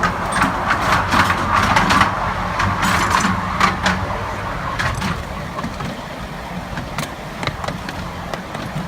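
Miniature railway train running, with a steady low engine hum and sharp irregular clicks, and a noisy rattle that eases after about four seconds.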